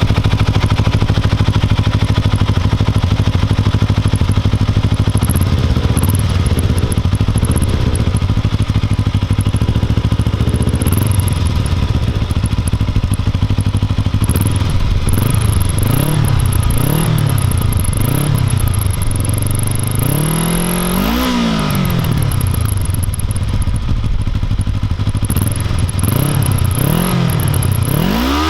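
Kawasaki ER-5's parallel-twin engine through its stock exhaust. It idles steadily, then the throttle is blipped over and over, each rev rising and falling back, with one higher rev about two-thirds of the way through.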